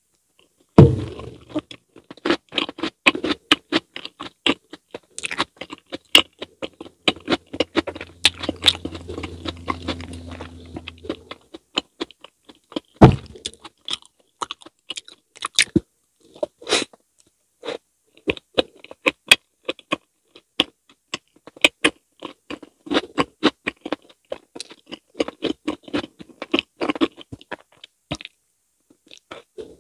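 Close-miked wet chewing, smacking and sticky mouth clicks of someone eating soft mochi (glutinous rice cake) with whipped cream and fruit. Two louder knocks come about a second in and near thirteen seconds, and a low hum sounds for a few seconds in the middle.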